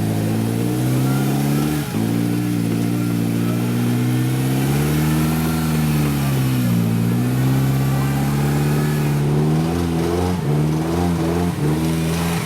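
Engine of a prepared off-road competition vehicle running under load. Its pitch dips briefly about two seconds in and sags and recovers in the middle, then it is revved up and down several times in quick succession near the end.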